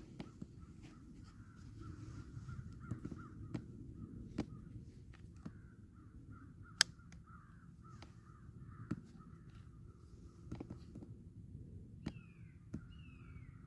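Faint, harsh bird calls repeated in the distance over a low steady rumble, with scattered sharp clicks and snaps. Near the end come four short calls, each falling in pitch, about half a second apart.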